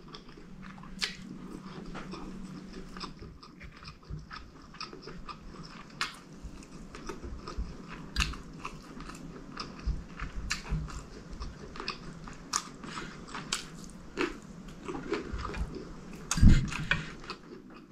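Close-miked chewing and wet mouth sounds while eating chicken curry and fried plantain, with many short sharp smacks and clicks. A louder low thump comes near the end.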